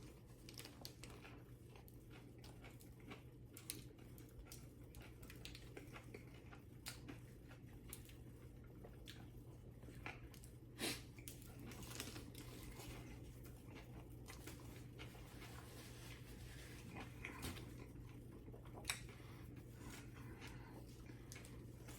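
Faint chewing and biting of a sandwich: soft scattered mouth clicks and crunches, a few slightly louder bites, over a steady low hum.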